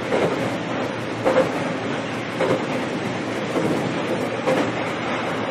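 On-board running sound of a JR East EV-E801 battery-electric train cruising steadily, its wheels knocking over rail joints about once a second.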